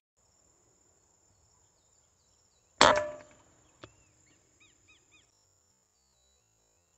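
A single PCP air rifle shot about three seconds in, sharp with a short ringing tail, followed about a second later by one small knock. A few short chirping calls come after it, over a faint steady high-pitched whine.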